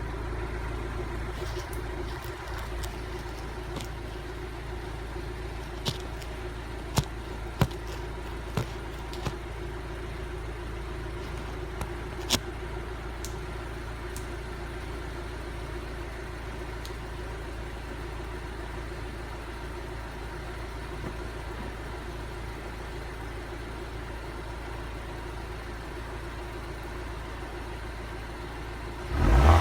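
Audi A4 B7's stock exhaust at a steady idle, with a handful of sharp clicks in the first half. A rev begins just at the end.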